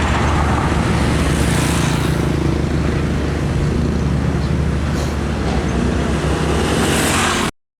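Heavy truck traffic passing: a steady low engine hum under loud tyre and road noise, with vehicles swelling past. It cuts off suddenly near the end.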